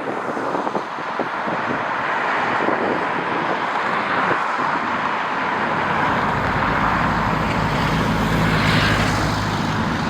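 Jet airliner engines approaching, a low rumble that builds up about halfway through with a faint rising whine, over gusty wind buffeting the microphone.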